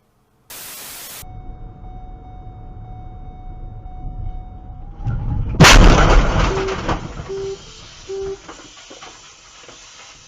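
Vehicle collision caught on a dash cam: road and engine rumble builds, then a loud crash about five and a half seconds in, with clattering that dies away. Three short, even beeps follow the impact.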